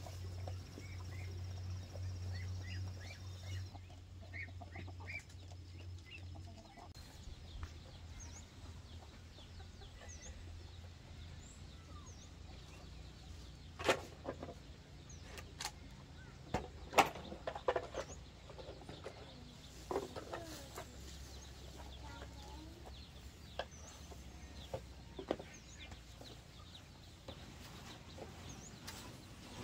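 Chickens clucking, with short chirps scattered throughout and a few sharp knocks around the middle. A low hum runs through the first several seconds, then drops away.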